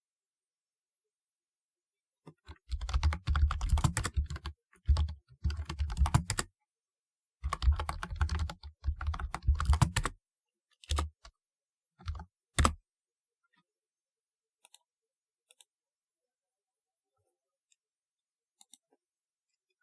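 Typewriter-style keyboard being typed on: three quick runs of clacking keystrokes with a deep thud under each, then a few single key presses, then near quiet with only faint ticks.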